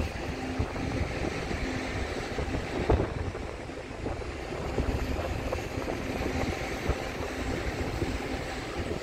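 Taiwan Railway E1000 push-pull Tze-Chiang express pulling out of the station with a steady low rumble of wheels on rail, mixed with wind buffeting the microphone. One sharp knock about three seconds in.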